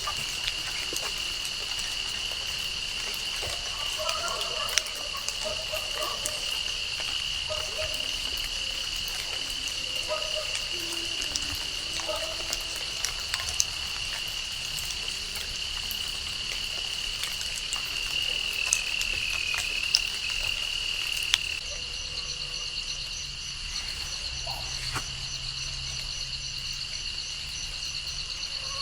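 Steady chorus of calling insects and frogs: an even high-pitched trill throughout, with scattered sharp ticks. About two-thirds of the way through, the mix changes and a fast pulsing trill comes in above it.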